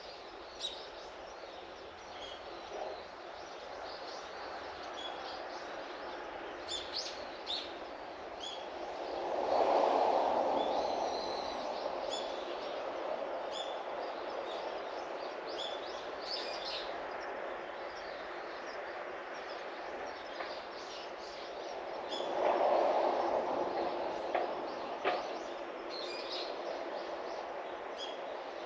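Small birds giving short, scattered chirps over a steady outdoor background hush. Two louder swells of rushing noise rise and fade about ten seconds in and again near the end.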